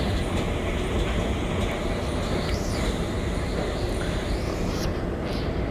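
Escalator running steadily, a continuous low mechanical rumble with no distinct knocks or clicks.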